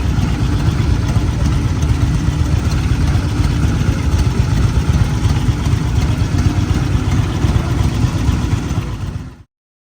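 Steady rumble of a motor vehicle engine with road noise, cutting off abruptly near the end.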